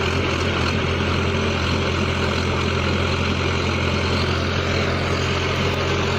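Engine of a pneumatic drilling rig running steadily at a constant low pitch, with a dense hiss over it.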